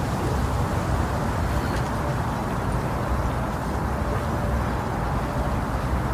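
Steady white-noise track made to imitate the sound inside the womb: an even, deep rushing noise, heavy in the low end, with no breaks or changes.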